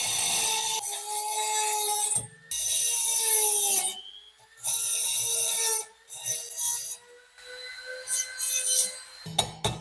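Hand abrasion on the rusty steel knife blade: three long rubbing strokes, then several shorter ones, with a faint ringing tone from the metal.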